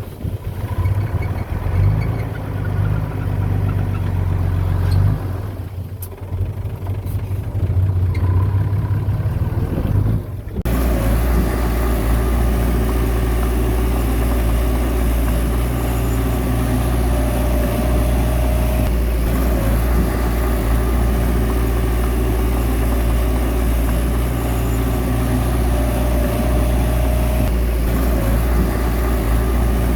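Heavy diesel earthmoving engine running, its level rising and falling with the work. About ten seconds in the sound changes abruptly to a steadier, fuller engine noise, and a faint higher whine comes twice later on.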